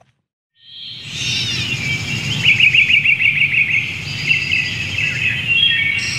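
Several birds chirping and trilling, with a fast run of repeated notes about two and a half seconds in, over a low steady background. It fades in after a moment of silence.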